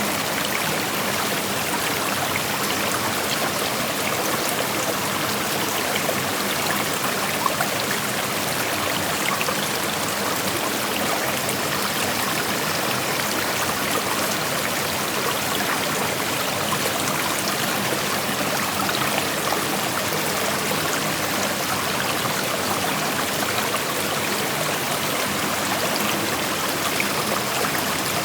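Shallow creek flowing and rushing steadily over rocks, an even hiss of moving water with small splashes and trickles.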